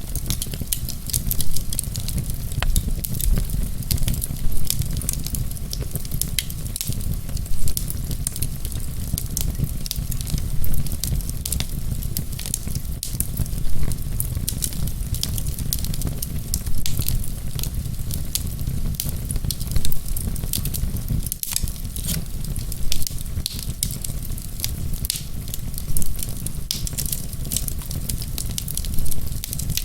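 Wood fire burning, with a steady low rumble of flame and dense small crackles and pops throughout. The sound swells a little louder about every three seconds.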